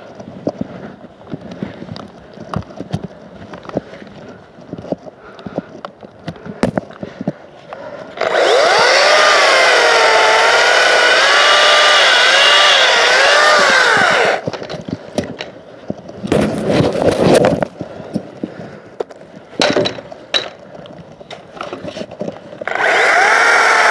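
Makita 18V cordless electric chainsaw cutting paulownia wood: a loud whine that wavers in pitch while it cuts, for about six seconds starting some eight seconds in, then a short second burst, and another cut starting near the end. Between the cuts come scattered clicks and knocks.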